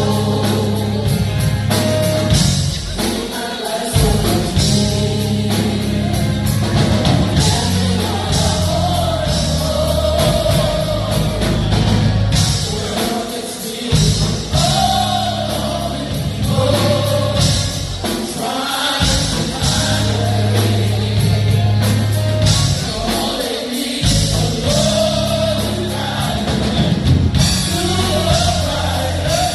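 Gospel vocal group singing with band accompaniment: voices carry a melody over bass, drums and cymbals.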